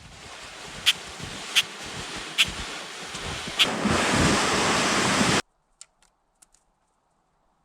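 A rushing noise that swells steadily, with four sharp cracks through it, then cuts off suddenly about five seconds in, leaving near silence with a few faint ticks.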